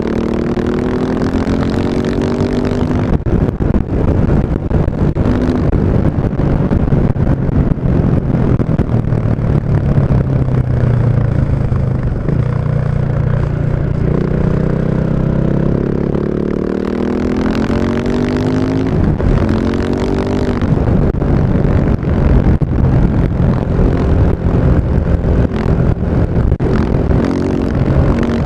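KTM 690 Enduro's single-cylinder engine running through an Akrapovic exhaust, its revs climbing and easing several times.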